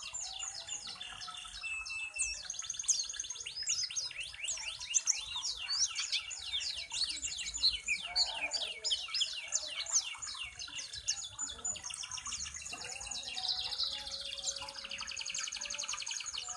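Pleci (white-eye) singing a long, fast twittering song of rapid sweeping high notes, with a brief lull about two-thirds of the way through. It is a challenge song of the kind used to provoke rival white-eyes into answering.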